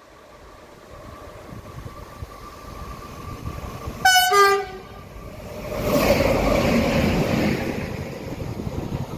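A train sounds its horn once, a short blast about four seconds in, as it nears. It then rushes past at speed with a loud rolling noise that fades away.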